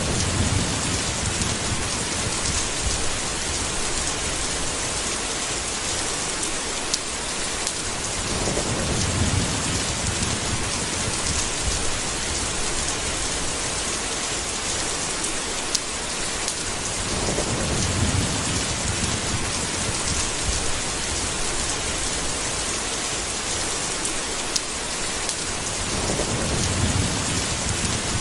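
Steady heavy rain hissing, with low thunder rumbles swelling and fading four times, about every eight or nine seconds.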